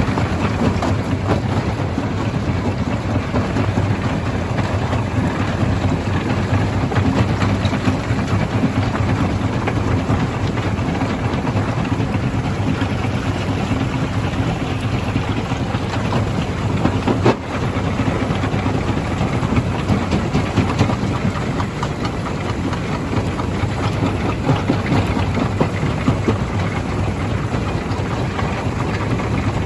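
Stone crusher running: a steady low drone from the machine with a dense crackle and rattle of rock being crushed, with a brief dip a little past halfway.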